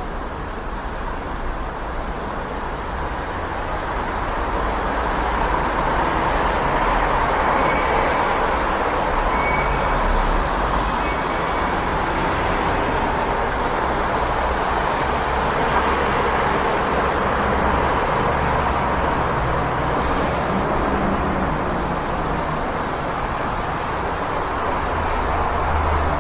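City street traffic noise: a steady wash of passing cars and heavier vehicles with a low engine rumble, swelling a little after the first few seconds.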